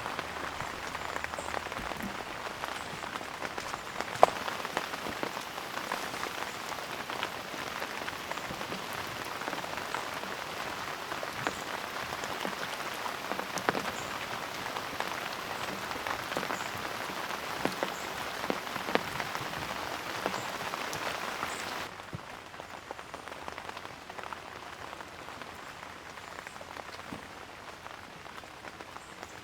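Steady rain falling, a continuous hiss with many separate drops striking close by, one especially loud about four seconds in. About 22 seconds in the rain becomes quieter and duller.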